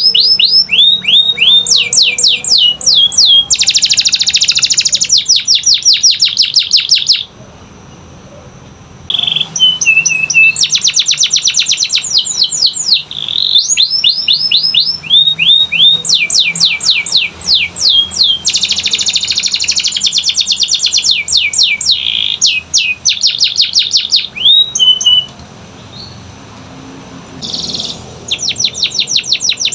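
Domestic canary singing: long, fast trills of rapidly repeated notes alternating with runs of quick downward-sweeping whistles. The song breaks off twice, for about two seconds some seven seconds in and for about two and a half seconds near the end.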